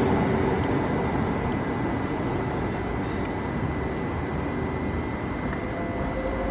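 A train running on the track: a steady rumble with a faint steady whine, slowly getting quieter. Near the end a faint rising tone begins.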